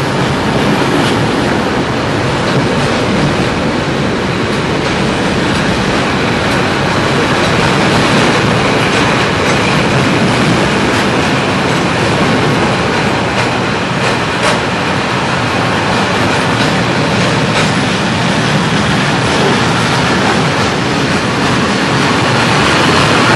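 Container freight train's flat wagons rolling past close by: a loud, steady rumble of steel wheels on rail with scattered clicks as the wheels cross rail joints.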